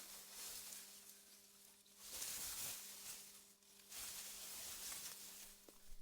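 Wind gusting through meadow grass: a faint rustling hiss that swells and fades three times, over a steady low hum.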